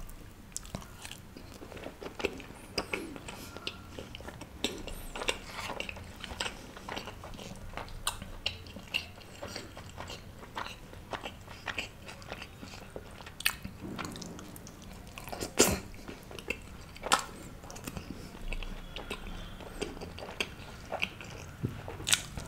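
Close-miked chewing and eating of paneer and flatbread: irregular wet mouth clicks and smacks, with a few louder ones along the way.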